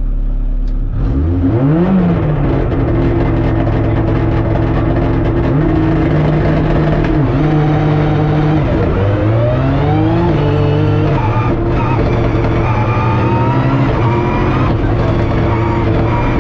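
Ford Sierra RS Cosworth's turbocharged four-cylinder engine heard from inside the cabin: idling, then revved hard about a second in. It then pulls away and accelerates, its pitch climbing and dropping back at each gear change.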